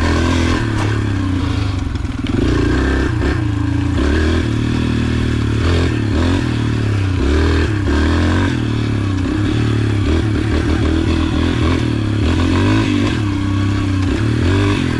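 Yamaha TT-R125's small air-cooled four-stroke single-cylinder engine running while the bike is ridden, its revs rising and falling over and over as the throttle is worked.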